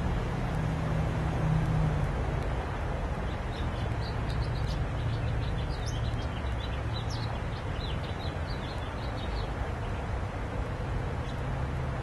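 Steady low outdoor rumble of background traffic, with a small bird twittering in quick high chirps for several seconds in the middle.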